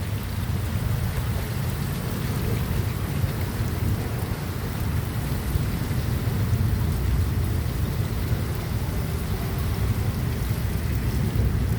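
Heavy rain falling steadily during a thunderstorm, a dense even hiss over a strong low rumble.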